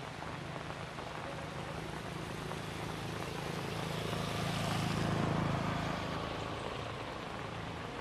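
Steady rain falling, with a passing vehicle whose engine hum grows louder to a peak about five seconds in and then fades away.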